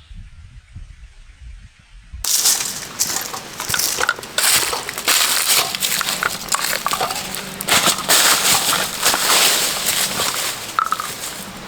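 Close, dense crunching and rustling with many sharp crackles, starting abruptly about two seconds in after a low rumble.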